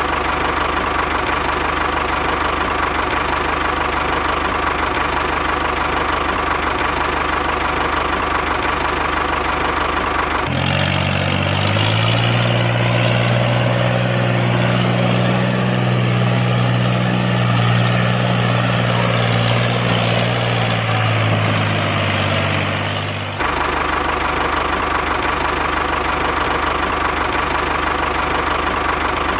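Small engine of a DIY mini tractor running steadily. About ten seconds in, it gives way to a deeper humming note that climbs a little, holds, and sinks away some thirteen seconds later. The first steady running then comes back.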